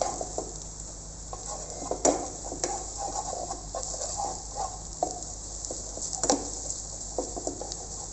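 Garlic, onion and tomato paste sizzling in butter in a hot pan while being stirred, with irregular scrapes of the utensil and a few sharper knocks against the pan, the loudest about two and six seconds in.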